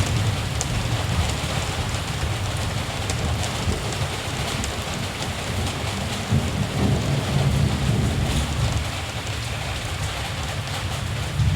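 Steady rain falling, with a low rumble of distant thunder that swells about halfway through.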